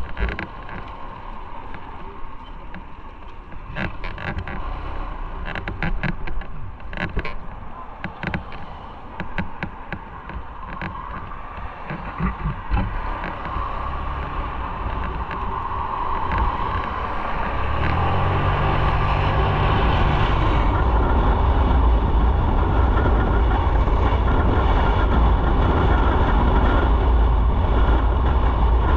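Motorcycle ride: the engine running under wind and road noise, with a scatter of sharp ticks in the first half. About 17 seconds in, a steady low engine note grows louder and stays so.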